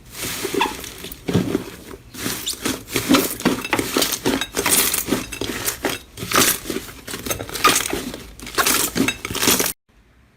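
Slime being squeezed and pressed by hand, giving a dense run of crackling, crunching pops and clicks that cuts off suddenly near the end.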